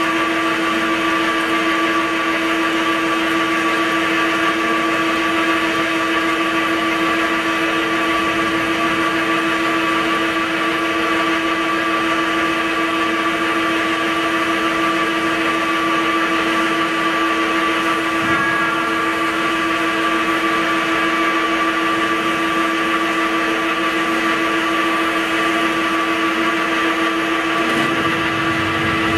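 CNC vertical drilling machine running steadily, a constant machine whine that holds the same pitch throughout.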